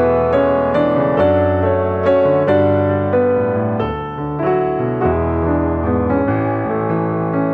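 Background music: a gentle piano piece with sustained notes over a low bass line, a new note or chord about every half second.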